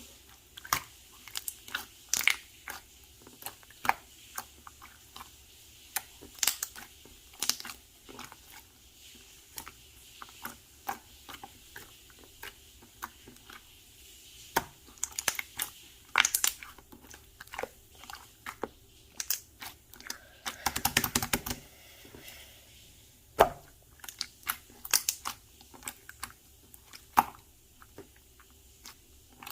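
Slime being squished and pressed by hand, giving irregular sticky clicks and pops, with a dense run of crackling about two-thirds of the way through.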